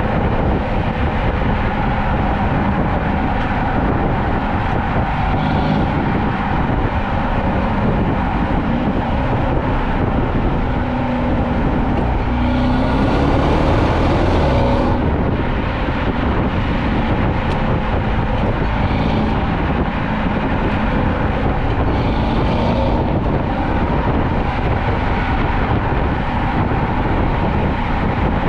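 Mercedes-Benz W222 S550's twin-turbo V8 with the exhaust resonators deleted, driving over steady road noise. The engine pitch rises once, about halfway through, as it pulls harder.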